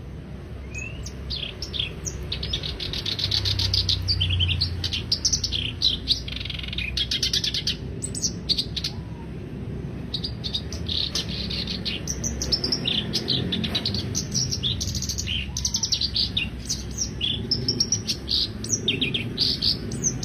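Black-browed reed warbler singing: fast, chattering phrases of rapidly repeated notes in short bursts, with a short lull about eight seconds in, over a low steady background rumble.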